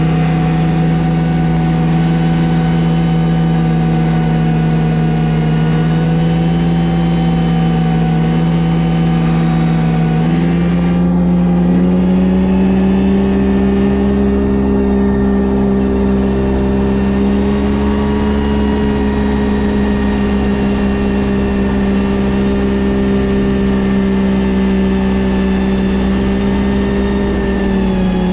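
Ski-Doo GSX 600 HO snowmobile's two-stroke twin running at a steady cruise on the trail. Its pitch steps up about ten seconds in, holds there, and drops off near the end.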